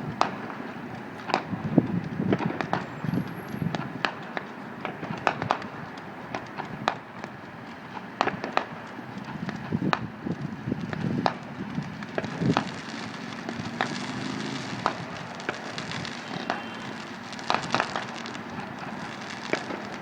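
Fireworks going off: a continual run of sharp cracks and pops at irregular intervals, several clusters of them packed close together.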